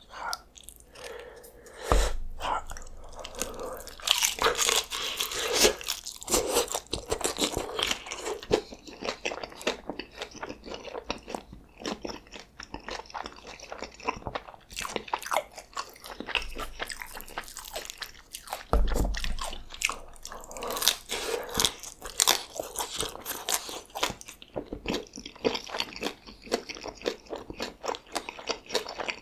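Close-miked biting and chewing of crispy birria tacos, the fried tortilla crunching and crackling between the teeth. There are big bites about two seconds in and again near nineteen seconds, with steady chewing between them.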